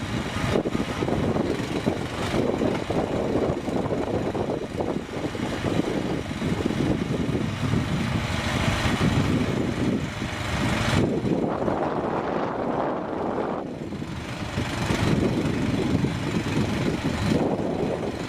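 Quad bike (ATV) engine running under load off-road, its sound changing abruptly several times.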